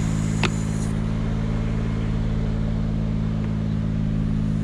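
Aerial lift truck's engine running steadily, with one sharp click about half a second in and a faint high whine that cuts off about a second in.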